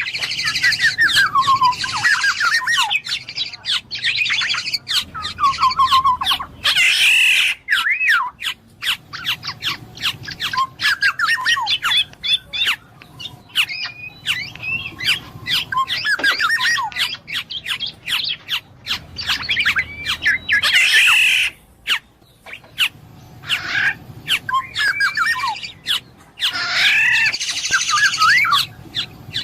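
Black-naped oriole (kepodang emas) calling in bursts: quick runs of bending whistled notes, with harsh, raspy calls about a quarter, two thirds and near the end.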